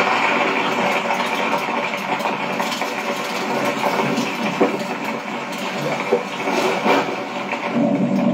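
Steady rain, an even hiss with scattered short taps of drops.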